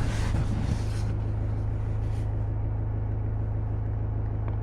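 Kubota M6040 tractor's diesel engine idling with a steady low drone while it warms up, with a brief rustle in the first couple of seconds.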